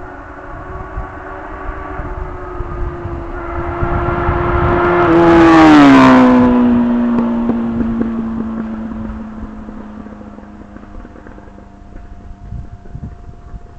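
Kawasaki 750 motorcycle passing at speed: a steady engine note that grows louder, drops sharply in pitch as it goes by about six seconds in, then holds the lower note and fades away.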